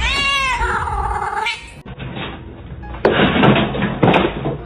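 A cat gives one long, drawn-out meow that falls in pitch and lasts about a second and a half. About three seconds in, a loud harsh noise follows.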